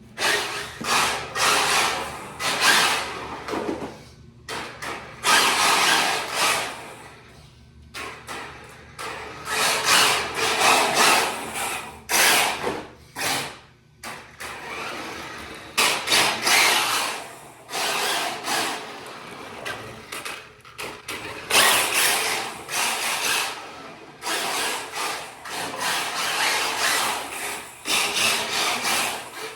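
Kyosho Fazer MK2 RC drift car with a Traxxas brushless motor being driven, its motor and drivetrain whirring up in repeated short throttle bursts with brief drops between them.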